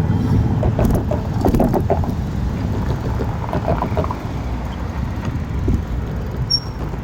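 Wind buffeting the microphone and rumbling road noise while riding a bike, with scattered small knocks and rattles.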